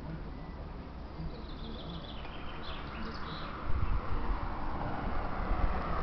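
A bird calls a short run of notes falling in pitch, followed by a few more high notes. Just past halfway comes a low thump, then a rushing noise that grows louder toward the end.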